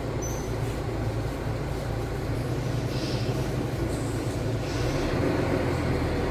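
Steady low mechanical rumble with a constant hum, like a running engine or motor.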